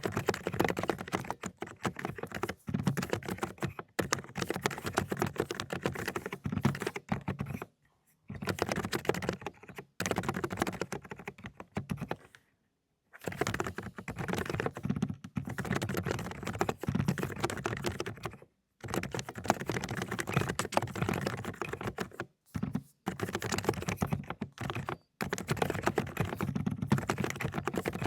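Fast typing on a mechanical keyboard with silenced cotton-candy switches: dense runs of soft keystrokes broken by a few brief pauses, the longest about halfway through.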